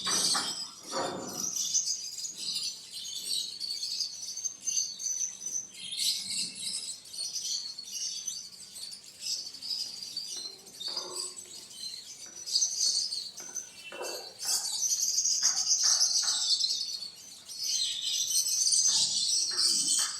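Birds chirping continuously in a dense chorus of high, quick chirps, with a few short lower calls mixed in.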